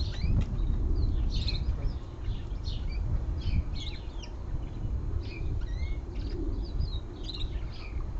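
Small birds chirping busily, with short high calls a few times a second, over a low steady rumble.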